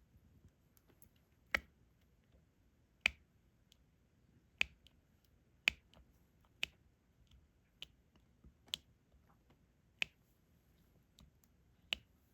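Diamond painting drill pen tapping drills onto the canvas: sharp, separate clicks about once a second, with a few fainter ticks between them.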